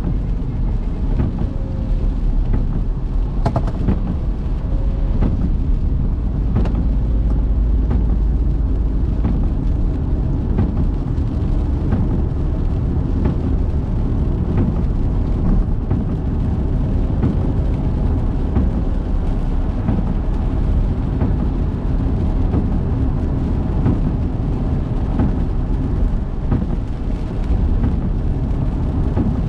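Car driving in the rain: a steady low road-and-engine rumble with scattered sharp raindrop ticks, one louder tick about three and a half seconds in.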